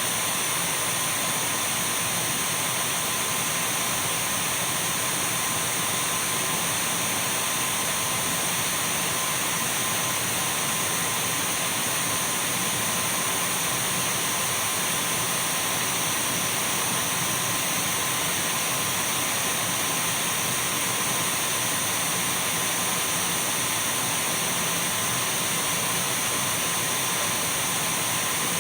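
Dyson V12 cordless stick vacuum cleaner running continuously: an even rushing hiss with a steady high motor whine, unchanging throughout.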